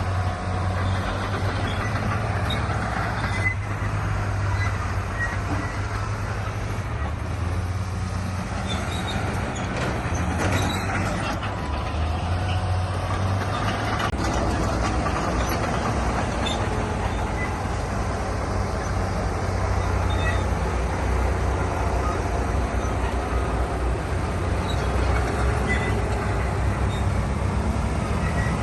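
Heavy diesel earthmoving machinery running steadily under load: a continuous low engine drone with faint clanks now and then.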